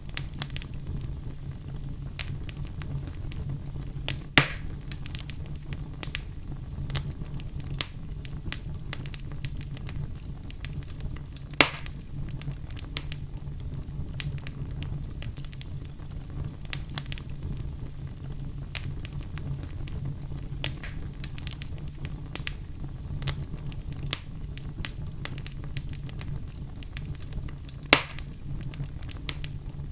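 Wood fire in a fireplace crackling, with a steady patter of small snaps over a low steady hum. Three loud pops come about four seconds in, near the middle, and near the end.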